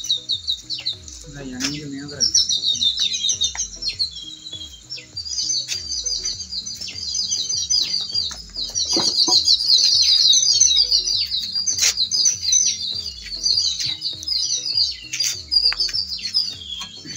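Small birds chirping and twittering rapidly and continuously, with a few sharp knocks now and then.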